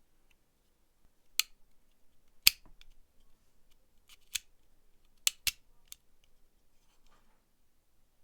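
Sharp, separate clicks and snaps in an uneven string, about seven of them, the loudest about two and a half seconds in: small hand tools and parts of a corroded IMCO Safety 4200 lighter being worked on.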